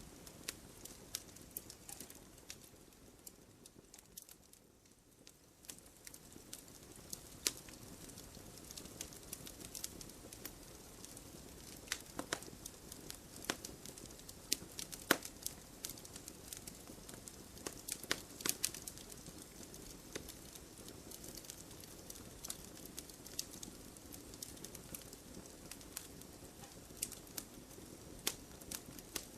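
Wood fire burning in a fireplace, crackling with irregular sharp pops over a soft steady hiss. The louder pops cluster around the middle.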